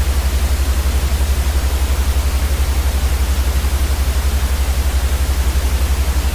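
Continuous white-noise sleep track: an even, steady hiss over a loud low hum that flutters rapidly and evenly.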